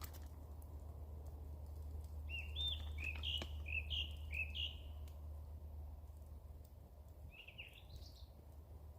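A woodland songbird singing: a phrase of about five quick repeated notes, then a shorter phrase near the end, over a steady low rumble.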